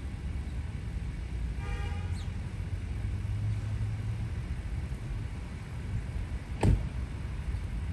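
Steady low outdoor rumble, with a faint pitched call and a short falling bird chirp about two seconds in, and one sharp knock near the end.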